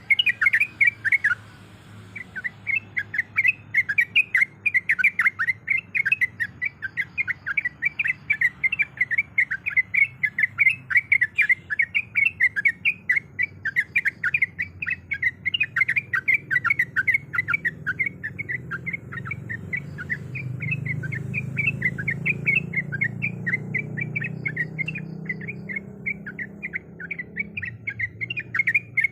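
Yellow-vented bulbul (trucukan) calling in a long, rapid series of short chirps, several a second, broken only by a brief pause near the start. A low background rumble swells in the second half.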